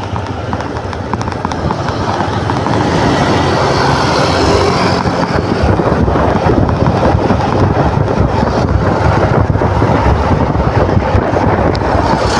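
Motor scooter under way: engine and wind noise, growing louder about two seconds in.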